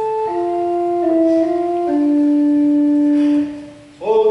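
Church organ playing slow sustained chords with steady, flute-like tones that step down to a long held low chord, which fades away. A new, louder chord comes in near the end.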